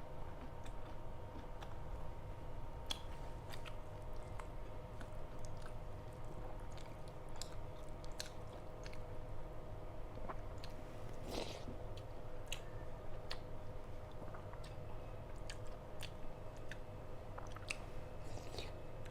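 A person eating close to the microphone: chewing, with scattered short mouth clicks and smacks and one longer noisy sound about eleven seconds in. A steady faint hum runs underneath.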